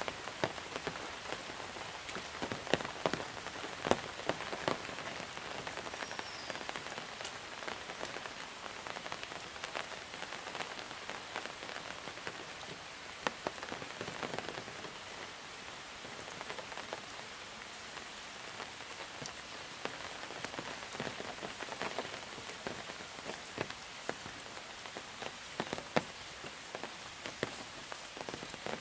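Steady monsoon rain falling, with many separate close drops striking a surface as sharp pattering ticks over an even hiss.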